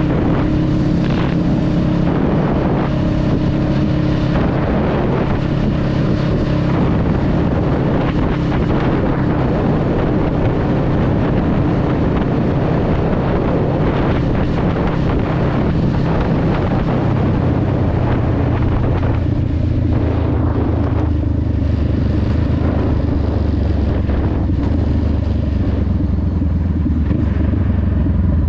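Honda Rebel 500's parallel-twin engine running under way, with wind noise on the microphone; the engine note drops to a lower, deeper pitch a bit over halfway through as the revs come down.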